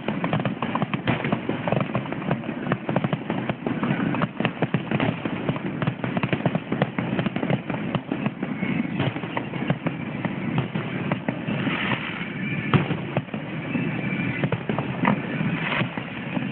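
Many fireworks going off, a dense run of pops and crackles in quick succession, with one sharper bang about twelve seconds in.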